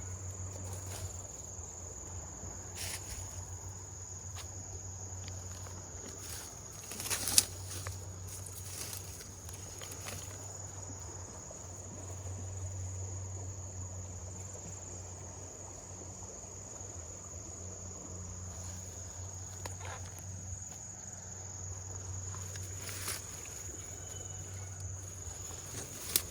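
Insects, crickets or similar, keeping up a steady high-pitched drone, with a low hum beneath and a few scattered clicks or knocks, the loudest about seven seconds in.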